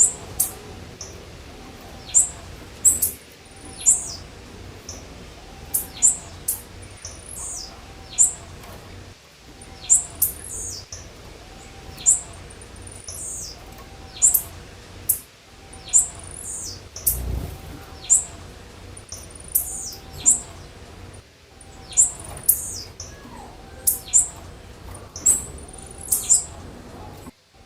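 Blue-black grassquit (tiziu) calling: short, sharp, high chirps repeated about once a second, some in quick pairs. A fainter, lower arched note repeats steadily underneath, and there is a single low thump about 17 seconds in.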